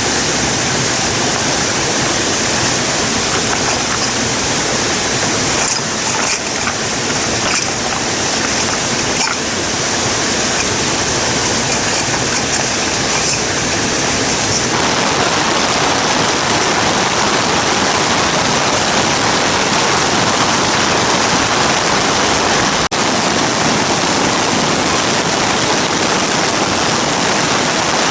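Steady, loud rushing of water. The tone shifts about halfway through, and the sound drops out for an instant near the end.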